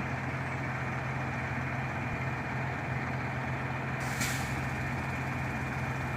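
Heavy shingle delivery truck's engine idling steadily, with one brief burst of air hiss about four seconds in.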